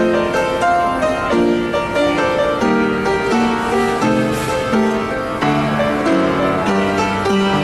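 Piano playing classical music: a steady run of melody notes over sustained chords.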